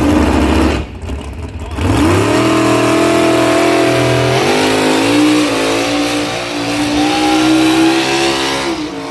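Pulling vehicle's engine at full throttle under load as it drags the sled down the track. It revs up about two seconds in and holds at high revs, with a step in pitch about halfway, and eases off near the end.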